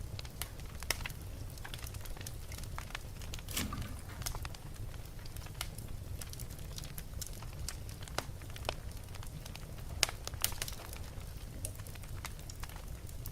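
Wood fire burning in a fireplace: a steady low rumble of the flames with irregular sharp crackles and pops of the burning logs, a couple of louder pops about three and a half and ten and a half seconds in.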